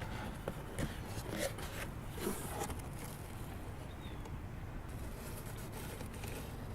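Soft rustling and scraping, a handful of short strokes in the first three seconds. Later come two very faint, brief high peeps.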